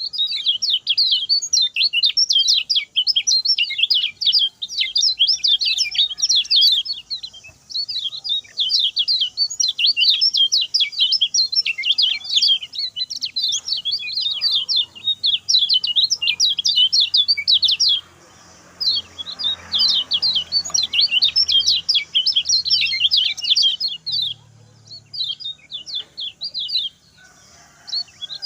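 Kecial kuning (lemon-bellied white-eye) singing a fast, chattering song of rapid high notes in long unbroken runs, with a few short pauses.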